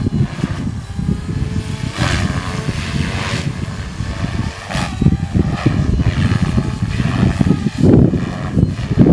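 MSH Protos electric RC helicopter flying aerobatic manoeuvres: rotor whine with repeated whooshing surges from the blades as it changes pitch. Strong wind buffets the microphone with a heavy low rumble.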